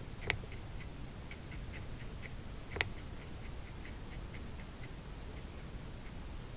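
Faint, even ticking at about four a second, with two louder clicks: one just after the start and one about three seconds in. The ticking fades out near the end.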